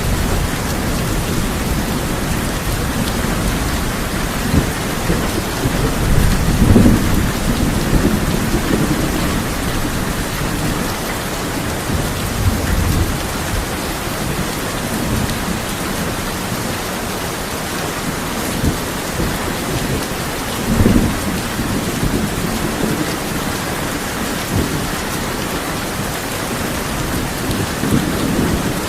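Steady heavy rain drumming on a tin roof, with low rolls of thunder swelling several times, the strongest about a quarter of the way in and again past two-thirds.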